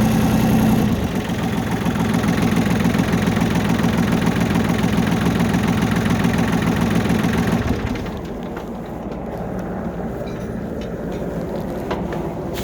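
Tractor engine running steadily, its sound dropping away sharply about eight seconds in and leaving a quieter, duller background.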